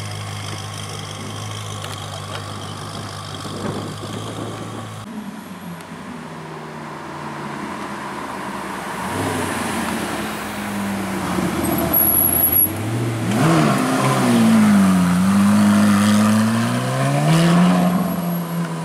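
A BMW M5 F10's V8 running low and steady as the car rolls off. About five seconds in, a Ferrari 458 Italia's V8 takes over: it pulls away, its pitch climbing, dipping and climbing again, and it is loudest in the second half.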